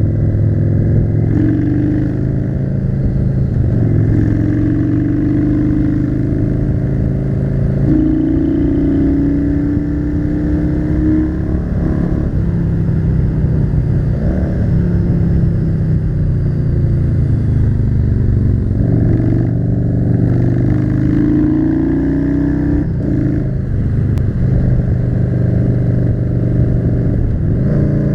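Yamaha cruiser motorcycle's V-twin engine under way on the road, its note climbing and dropping several times as the throttle opens and closes.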